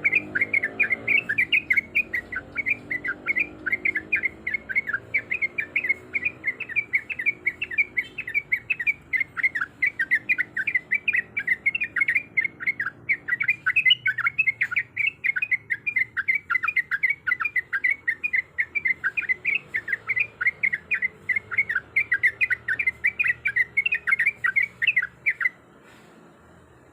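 Yellow-vented bulbul (trucuk) calling in a fast, unbroken run of short chirping notes, about four or five a second, which stop abruptly near the end.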